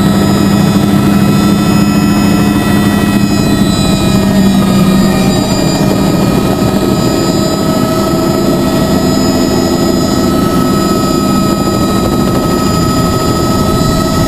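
Helicopter engine and rotor noise in flight: a loud, steady drone with several steady whining tones over it. The lowest tone fades about halfway through.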